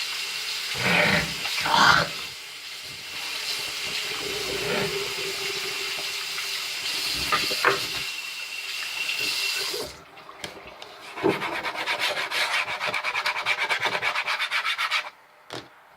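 Tap water running while hands are washed under it, with a few louder swells. About ten seconds in the steady rush gives way to a few seconds of quick, rhythmic rubbing of the hands, then stops.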